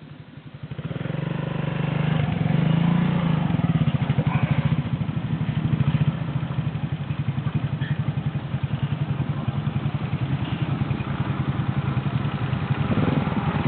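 Motorcycle engine running close by with a steady low pulse, getting loud about a second in and holding.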